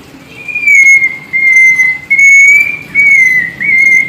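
Hill myna whistling five clear, loud notes of nearly even pitch, each under a second, with short breaks between them.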